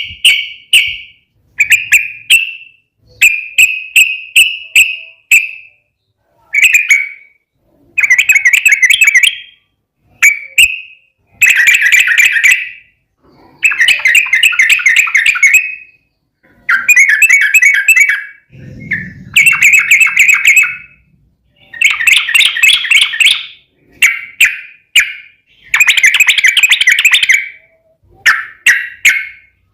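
Yellow-vented bulbul (trucukan) singing in repeated bursts of quick, bubbling chattering notes, each phrase lasting about one to two seconds, with short pauses between them. There is a brief low rumble about nineteen seconds in.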